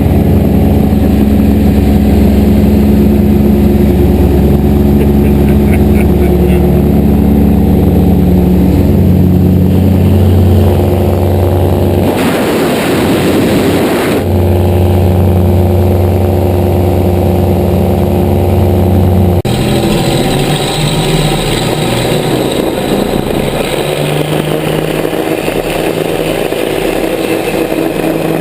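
Grumman G-44 Widgeon seaplane's twin piston engines running loud and steady. The sound changes abruptly about twelve seconds in and again near nineteen seconds.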